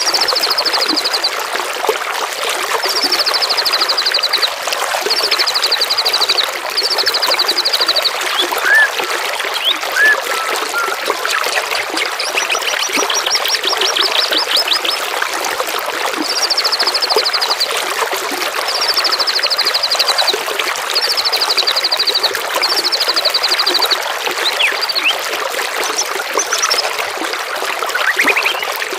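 Babbling running water with a songbird singing over it. The bird repeats a fast, slightly falling high trill about eight times, each phrase about a second and a half long, with a few short whistled notes in between.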